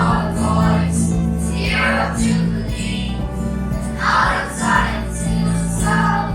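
A children's choir singing a praise and worship song with instrumental accompaniment.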